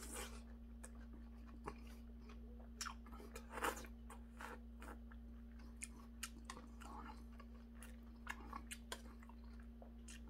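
A person chewing and eating a mouthful of seonji-gukbap (ox-blood curd soup with bean sprouts), with irregular faint mouth clicks and short slurping bursts, and occasional clicks of a spoon in a stainless-steel bowl. A steady low hum runs underneath.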